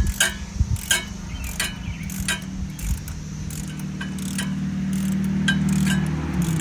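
Irregular metallic clinks of a hand wrench working the bolts on a Jeep's alternator bracket, one or two a second. A steady low hum runs underneath and grows louder in the second half.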